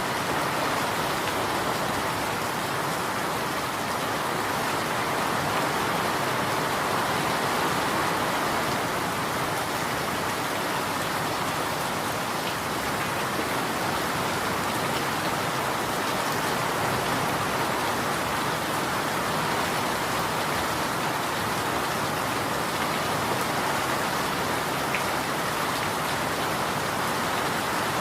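Steady rain falling, a continuous even hiss of drops with no change in strength.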